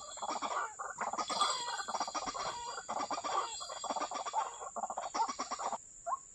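White-breasted waterhen calls: a run of rapid, repeated croaking notes that stops a little before the end, followed by one short rising note.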